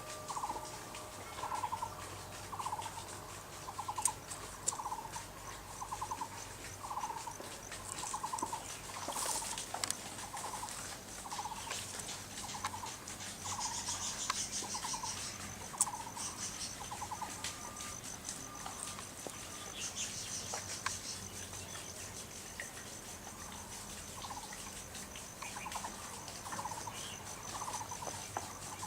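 A short rattling animal call repeated about once a second, with a thin, high insect-like buzz joining in about halfway through and dropping out later.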